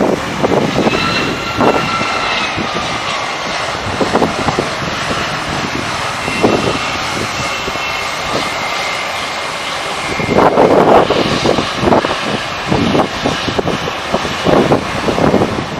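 Jet airliner engines running: steady engine noise with a faint high whine over it, growing louder and gustier about ten seconds in.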